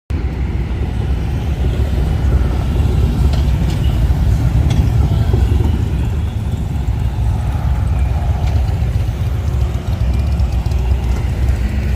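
Motorcycle engine running with a steady low drone.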